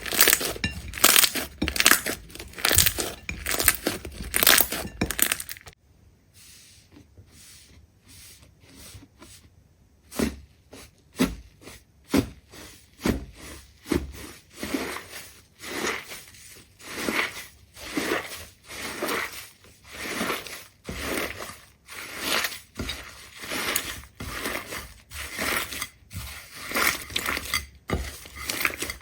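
Crisp crunching and crackling as something is crushed, dense for the first few seconds, then quiet for about four seconds, then a steady run of crunches a little over once a second.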